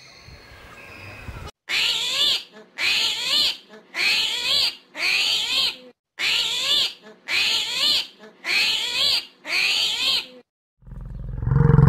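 Eight short high animal calls, each sweeping up and down in pitch, repeated about once a second with abrupt starts and stops as if looped. Near the end a deep, low grunt from a large bovine begins.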